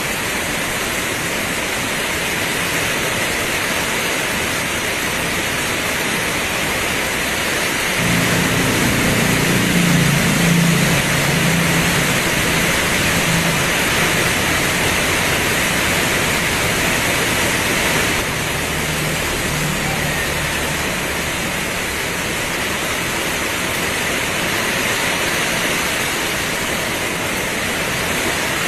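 Heavy rain pouring steadily as an even hiss. About eight seconds in, a low rumble joins it and lasts roughly ten seconds before fading back into the rain.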